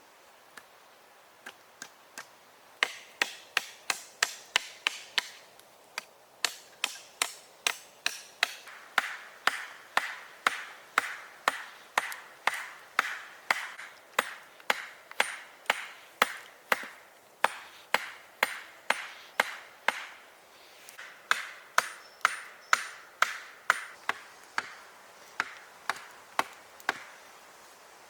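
A hand tool striking wood in a long, steady series of sharp blows, about two a second, each with a short ring, pausing briefly twice.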